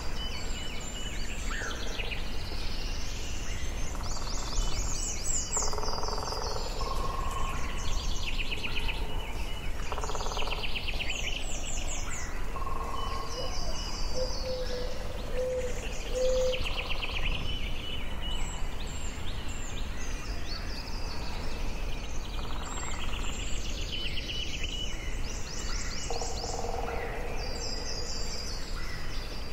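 Forest ambience: several songbirds singing and calling over one another, with fast trills and repeated high notes, a few lower whistles, over a steady low background rumble.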